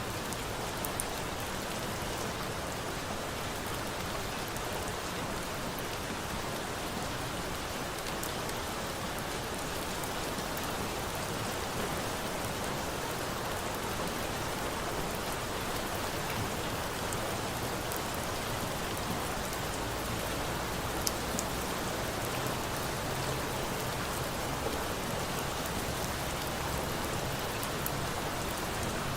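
Steady rain falling. A few faint sharp pops from a crackling bonfire are mixed in.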